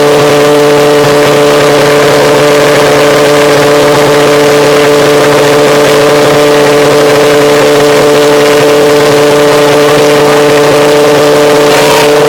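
Valved pulse jet engine running with a loud, steady drone held at one pitch, with strong overtones over a hissing rush.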